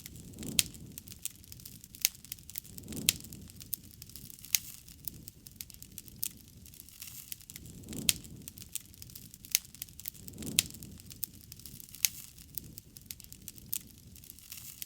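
Campfire of burning wood crackling, with frequent sharp, irregular pops. Under the pops, a soft low rush of flame swells up every few seconds.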